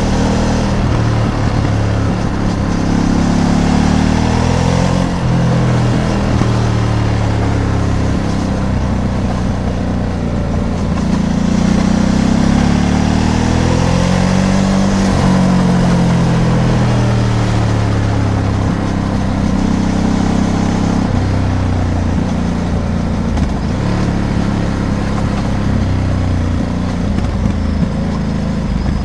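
Ducati DesertX Rally's 937 cc V-twin engine heard from the rider's seat, revs rising and falling several times as the bike accelerates, changes gear and eases off, over wind and road noise.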